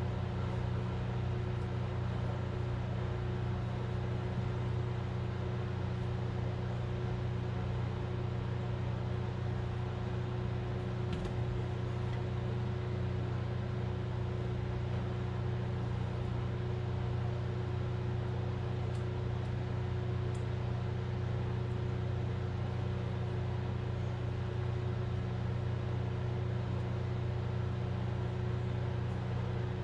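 Steady machine hum at one constant low pitch, with a faint click about eleven seconds in.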